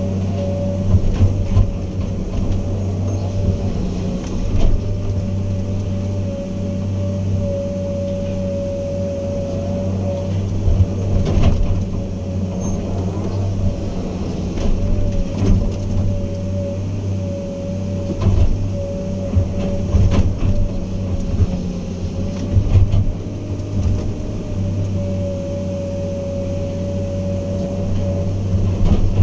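Heavy diesel earthmoving machine running steadily under work, its low engine drone overlaid by a steady whine, with scattered clanks and knocks throughout.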